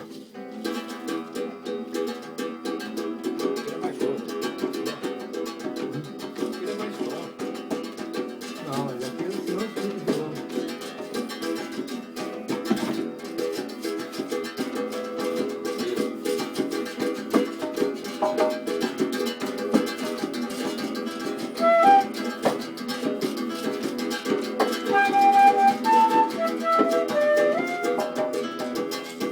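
Acoustic plucked string instruments, guitar and ukulele-like, strummed together in a steady rhythm. From about two-thirds of the way through, a higher melody of short held notes plays over the strumming.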